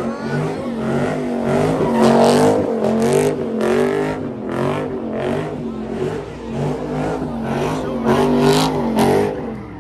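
Car engine revving hard, its pitch rising and falling over and over, while the car spins its tyres in thick tyre smoke.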